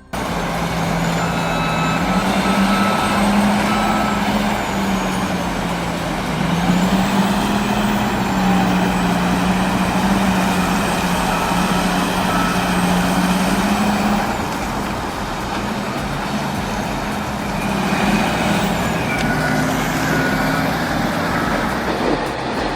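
Heavy diesel engine working hard, a steady drone that shifts up and down in pitch every few seconds as the revs change under load.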